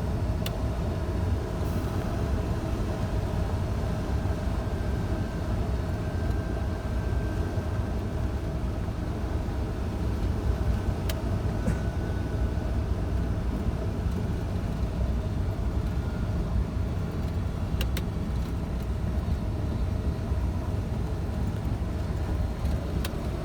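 Scania truck on the move: a steady low drone of diesel engine and road noise, with a few faint clicks.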